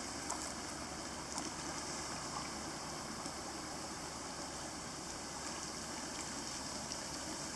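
Steady rushing noise of the creek's flowing water, with the distant hum of ship loading and unloading at the port running under it. A few faint ticks now and then.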